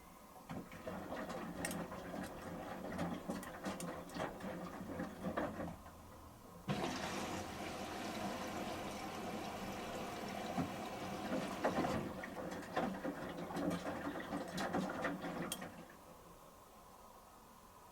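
Samsung front-loading washing machine in its final rinse: the drum turns the shirts through the rinse water with sloshing and splashing. From about seven seconds a steadier rush of water joins in, and the tumbling stops near sixteen seconds.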